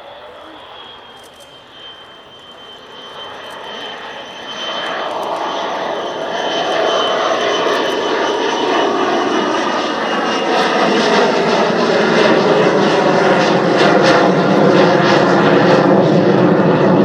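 Lockheed U-2's single F118 turbofan as the aircraft comes in on a display pass: the jet noise builds from about four seconds in and grows steadily louder, with a high whine that slides slowly down in pitch before fading into it.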